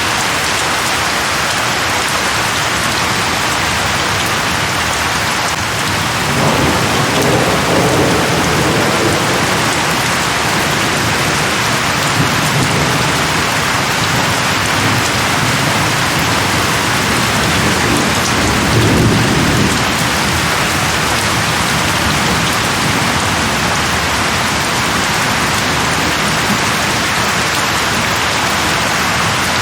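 Steady heavy rain, with rolling thunder rumbling underneath a few seconds in and again, louder, about two-thirds of the way through.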